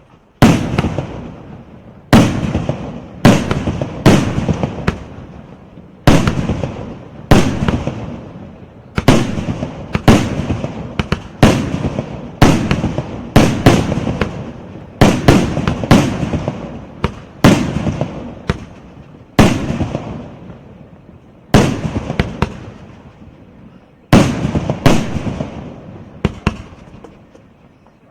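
A 36-shot fireworks cake firing its shots one after another, a loud bang every one to two seconds, each trailing off in a fading run of crackling pops.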